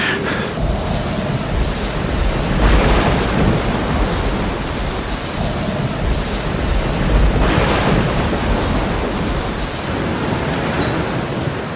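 Steady rain with rolling thunder, the deep rumble swelling twice, about three seconds in and again past seven seconds.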